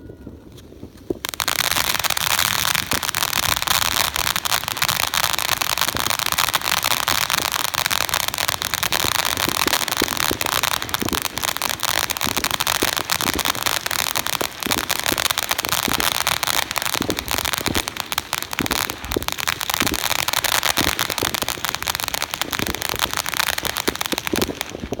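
A firework going off with continuous dense crackling and hissing for about 23 seconds; it starts abruptly about a second in and stops suddenly just before the end.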